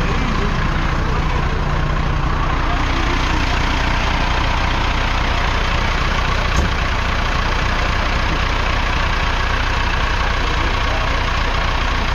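Four-cylinder 3.9-litre diesel engine of a 1982 Trantor Series I tractor idling steadily, with a single short click about six and a half seconds in.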